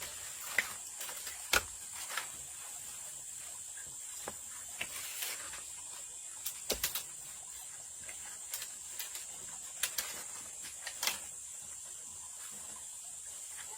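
Irregular short clicks and knocks, some in quick pairs and triples, over a steady high-pitched hiss.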